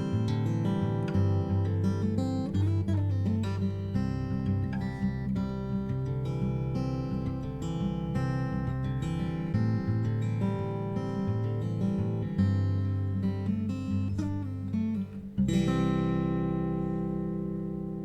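Background music: acoustic guitar picking a run of plucked notes, then a chord struck about three-quarters of the way through that rings out and fades.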